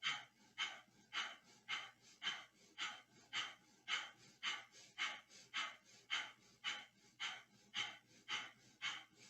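Breath of fire, the Kundalini yoga breathing exercise: rapid, rhythmic, forceful breaths through the nose, pumped from the navel. The short sharp breaths come about two a second, evenly paced.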